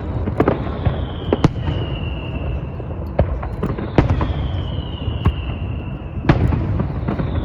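Fireworks display: sharp bangs and crackles about once or twice a second, with a high whistle that slides down in pitch three times, each lasting about two seconds.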